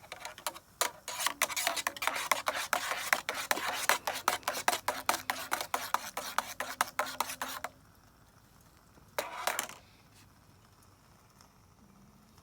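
A utensil scraping and clinking rapidly against cookware, many quick strokes for about seven and a half seconds, then one short scrape about nine seconds in.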